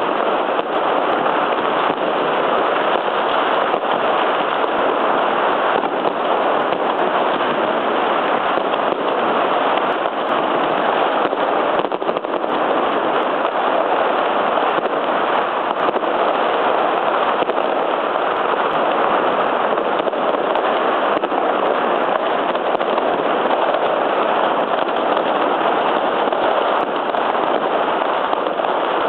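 Fireworks going off all around in a dense, unbroken barrage of pops and crackles that merge into a steady din.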